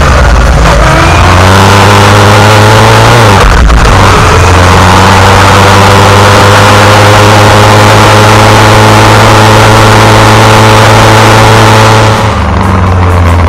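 Yamaha XJR1300's air-cooled inline-four engine heard from on board while accelerating. Its pitch climbs, drops with a gear change about three seconds in, then pulls steadily in the higher gear until the throttle eases off near the end.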